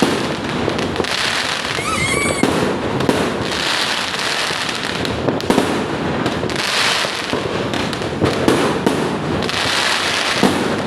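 Fireworks display going off continuously: dense crackling with many sharp bangs.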